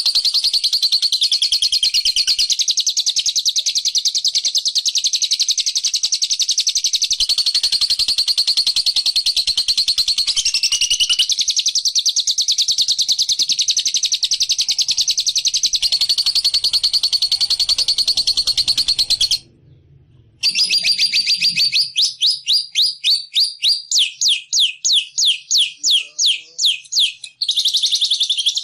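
Loud, continuous songbird chattering and rapid trilling, played as a lure call for bird trapping. It breaks off for about a second some 19 s in, then comes back as a fast series of separate sweeping notes, about three a second, before the dense trilling resumes near the end.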